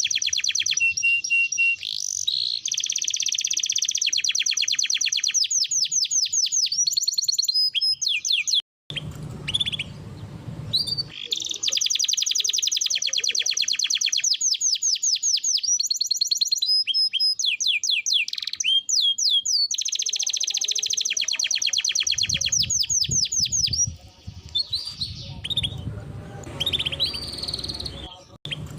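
Domestic canary singing long, very fast rolling trills in several bouts, with short changes of phrase between them. A low rumble sits under parts of the song, and the sound cuts out for an instant about nine seconds in.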